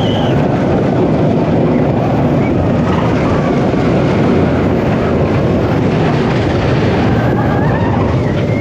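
Wodan wooden roller coaster running on its track: a loud, steady rumble and rush of noise that does not let up.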